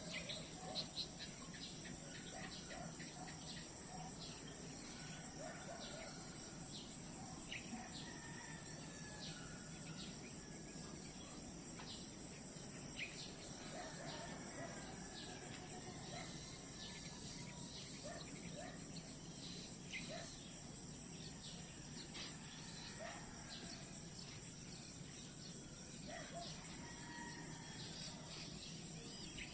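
Chorus of insects trilling in one steady high-pitched band, with many short chirps scattered over it.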